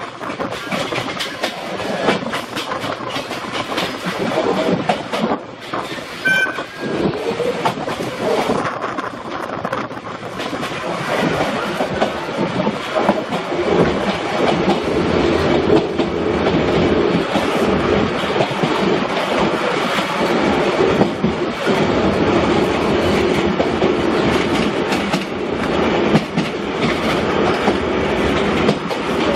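Passenger train running, heard from on board: wheels clicking over rail joints with a steady rolling rumble and wind noise, getting a little louder from about halfway. A brief high tone sounds about six seconds in.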